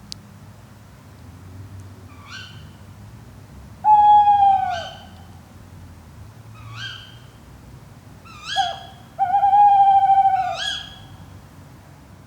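Tawny owls calling: short, sharp ke-wick calls about four times, and two long, loud hoots, the first falling in pitch about four seconds in and the second held steady near the end.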